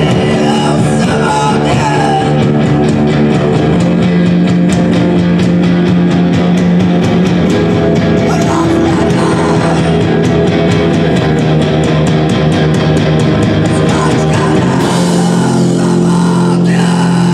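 Loud live rock music from a band, with electric guitar to the fore and a dense, fast beat.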